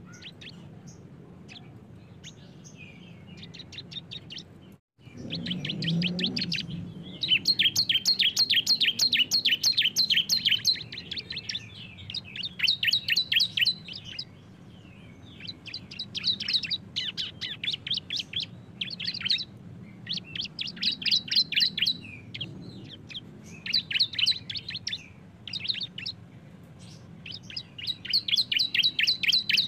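Bar-winged prinias (ciblek) singing their 'bren' song: long runs of fast, rattling high trills from two birds, coming in bursts of a few seconds with short gaps between. The sound cuts out completely for a moment about five seconds in.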